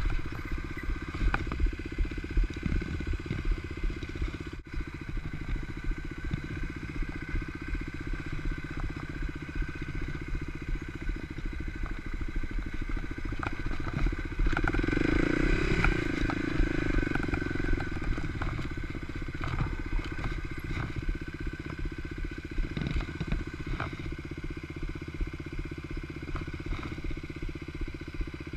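Kawasaki KLX 250's single-cylinder four-stroke engine running at low revs as the dirt bike picks its way over a rocky trail, with scattered knocks and rattles. The engine gets louder for a few seconds around the middle.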